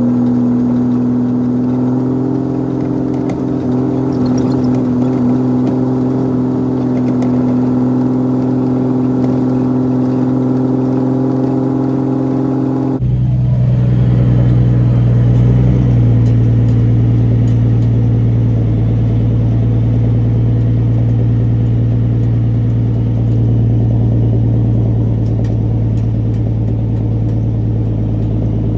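Caterpillar C13 diesel of a Kenworth W900B dump truck running steadily with an even drone. About halfway through the sound shifts abruptly to a lower, deeper steady drone.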